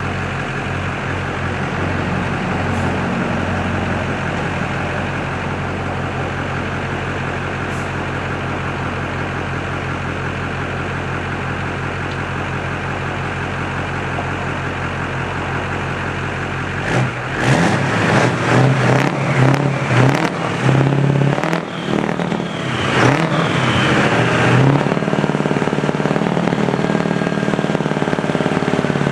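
Foam truck's engine running steadily at a raised speed, the title's 2200 rpm. About seventeen seconds in, the sound changes abruptly into several seconds of uneven surging, then settles into a steady, higher-pitched drone.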